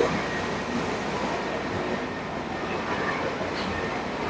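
Truck running and moving slowly, a steady rumble with clattering and rattling.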